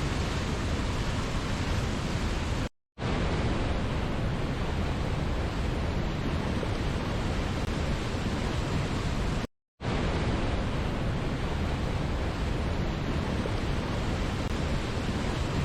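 Steady rushing noise of a waterfall, even and unchanging. Twice, about 3 seconds in and about 9.5 seconds in, it cuts out to silence for a split second and comes straight back.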